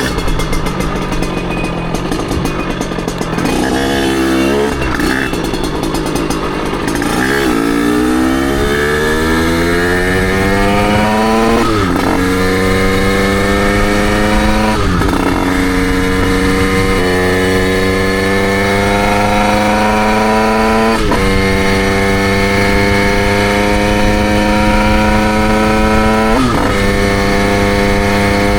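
Derbi Senda's 88cc two-stroke single revving up through the gears as the bike pulls away. Each climb in pitch ends in a sudden drop at a gear change: about five shifts, with a quick blip of the throttle first.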